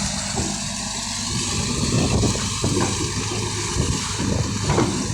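Hitachi excavator's Isuzu 6BD1 six-cylinder diesel engine running: steady at first, then rougher and uneven with irregular surges from about two seconds in. The machine is being worked on for hard starting and low power.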